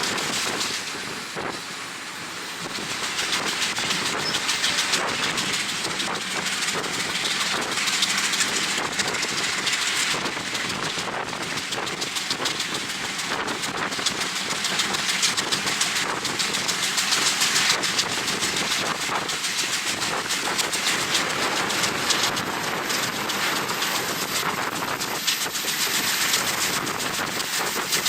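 Passenger train running at speed, heard from a carriage: wind rushing over the microphone, with the clatter of the carriage and wheels on the rails. The noise dips briefly about two seconds in.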